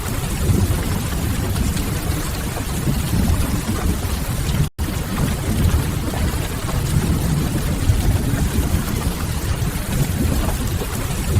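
Steady heavy rain with a deep, constant low rumble under it. The sound cuts out completely for an instant about halfway through, then carries on unchanged.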